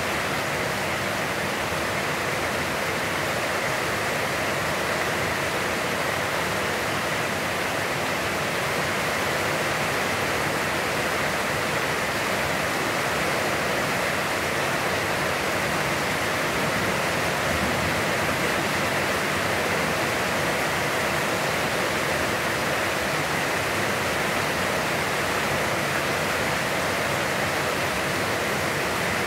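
Heavy, constant rain falling: a steady, even hiss with no let-up.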